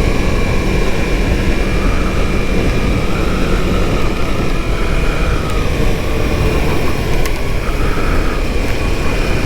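Steady wind rush on a helmet microphone while riding a BMW S1000RR motorcycle at cruising speed, with the bike's inline-four engine running underneath.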